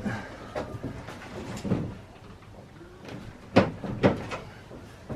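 A few scattered knocks and thumps, the two sharpest about three and a half and four seconds in.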